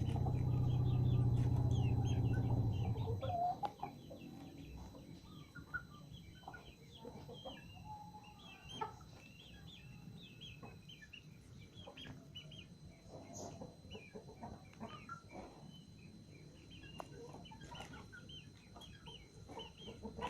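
Free-range village chickens (ayam kampung) clucking and calling, with many short high calls scattered through. For the first three seconds or so a loud, low, steady drone sits under them, then stops suddenly.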